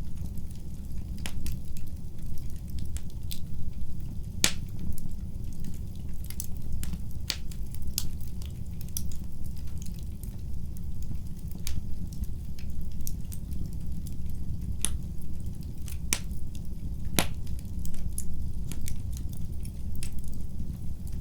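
Wood fire burning in a fireplace: a steady low rumble of the flames with sharp, irregular crackles and pops, a few louder snaps standing out.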